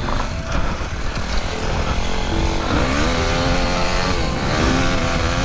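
Motocross dirt bike engine revving under way, its pitch rising about halfway through and again near the end.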